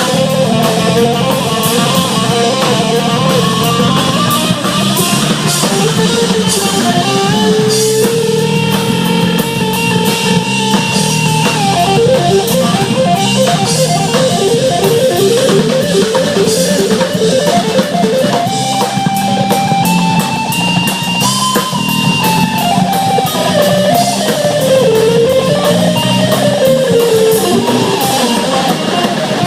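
Live rock band playing an instrumental jam: a single lead melody weaves up and down over a steady drum beat, with a run of fast repeated notes about twelve seconds in.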